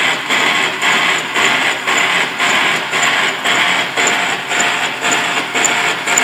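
Radial drill boring through steel, a harsh scraping cut that pulses evenly about twice a second, with a faint high whine running under it.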